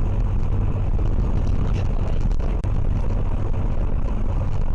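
Steady low rumble of a moving vehicle: engine and road noise, with a few faint ticks.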